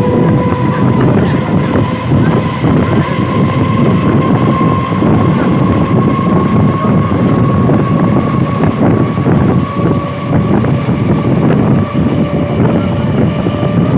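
Train running along the track: a loud, continuous rumble with a steady high whine held over it.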